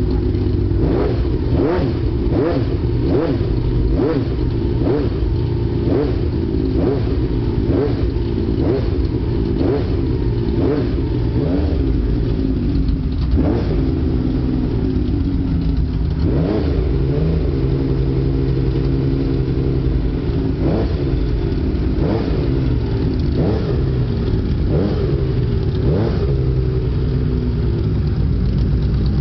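A custom motorcycle's V12 engine idling and being revved in short throttle blips, quickly one after another at first, then every second or two. It runs with a rattle and a clicking that the builders put down to its 1979 Honda clutch, though one of them took the clicking for an exhaust leak.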